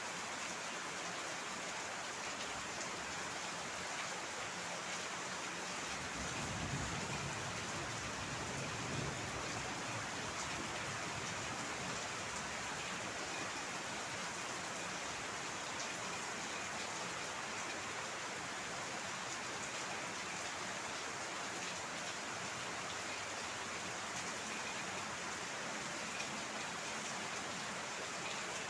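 Heavy rain falling steadily, with a brief low rumble about six seconds in.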